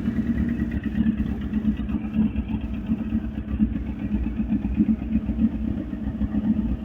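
Honda CBR1000RR's inline-four engine idling steadily through its stock exhaust, with an even, unchanging note.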